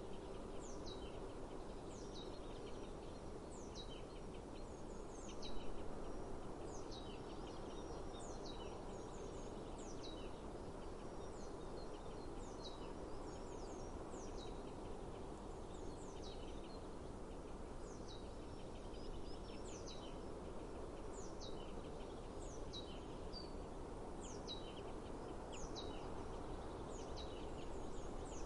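A bird repeating a short, high, downward-sweeping call about once a second over a steady low outdoor rumble. A brief louder sound stands out about five and a half seconds in.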